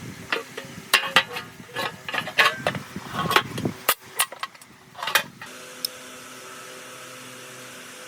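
A quick run of sharp metal clinks and knocks, tools and parts being handled and set down, for about five seconds, then only a steady hum.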